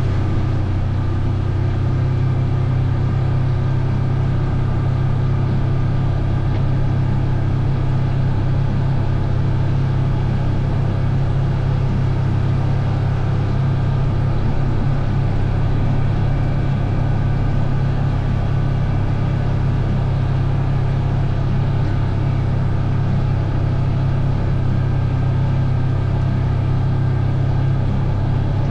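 Vehicle engine running at a steady speed while being ridden, a constant low drone with no revving.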